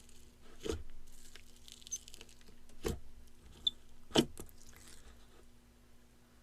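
Jelly slime being squeezed and poked by hand, a soft sticky crackle with three louder squishy clicks, at under a second, about three seconds and about four seconds in.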